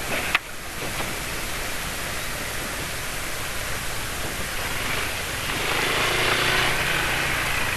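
Steady rush of wind and road noise from riding in traffic, with two sharp clicks at the very start and a passing vehicle swelling louder from about five to seven seconds in.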